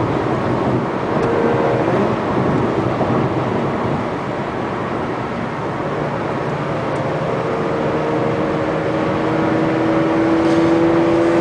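Car cabin at highway speed: steady road and wind noise under the engine's drone. In the second half the engine note climbs slowly and grows louder as the car gathers speed.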